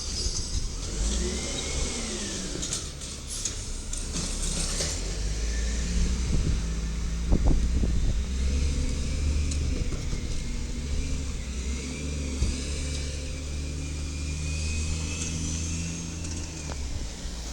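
Side-loader garbage truck engine running steadily, with a high whine that rises and falls about a second in.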